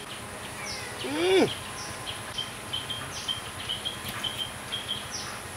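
Small birds chirping in the background: a run of short high chirps, two or three a second, with a few higher calls that sweep downward. A man gives a short hum about a second in.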